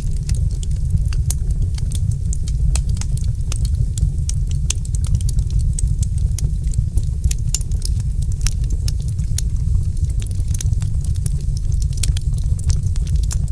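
Wood fire crackling in a fireplace: a steady low rumble of flames under frequent sharp pops and snaps.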